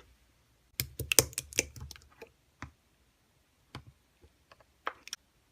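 Scattered light clicks and taps: a quick flurry of them about a second in, then a few single clicks near the end.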